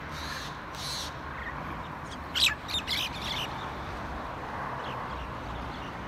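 A bird calling: three calls in the first second, then a quick run of four louder calls about two and a half seconds in, over steady outdoor background noise.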